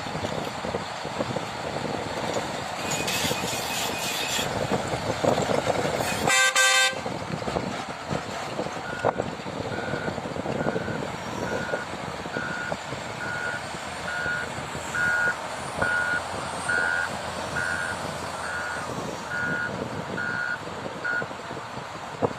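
Heavy vehicle's engine running, with a short horn blast about six seconds in, then its reversing alarm beeping steadily, a little faster than once a second, for about twelve seconds.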